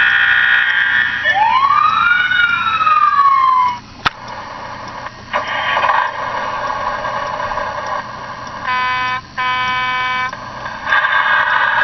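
Fire-engine sound effects played loudly through a ride-on toy fire engine's speaker. A steady horn-like tone gives way to a siren wail that rises and falls, then comes a click, and later two short horn blasts.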